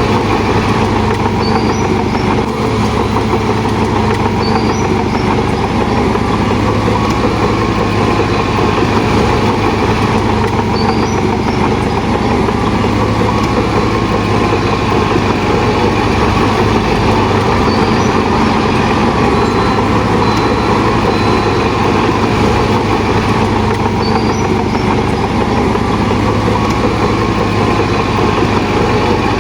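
Heavy diesel engine of a bulldozer running steadily under load, a loud continuous drone with a constant low hum.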